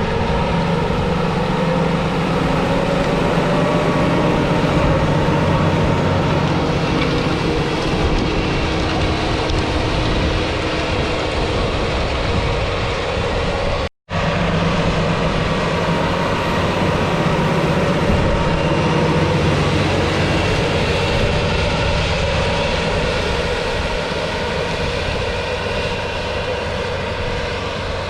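Valtra T214 tractor's 7.4-litre six-cylinder diesel engine running steadily, with the sound cutting out for a split second about halfway through.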